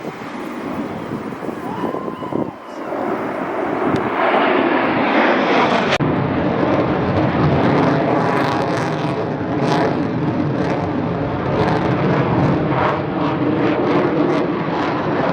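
Jet aircraft flying past at an air show: a loud, rushing engine noise that builds over the first few seconds and then stays loud.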